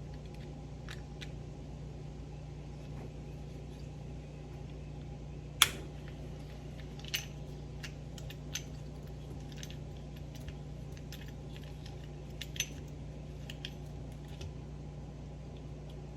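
Small metal hand tools clicking and clinking against a 1978 Ford steering box while an Allen wrench works out its set screw: scattered light clicks, with one sharper metallic click about five and a half seconds in and another near the end.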